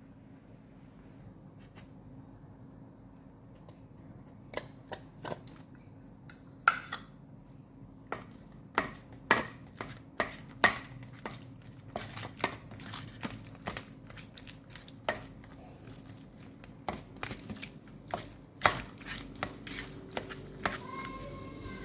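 Dishes and cutlery clinking and knocking irregularly, starting about four seconds in, over a faint steady hum.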